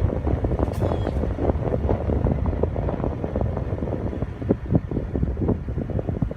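Gusty wind buffeting the microphone: a heavy low rumble with constant crackling.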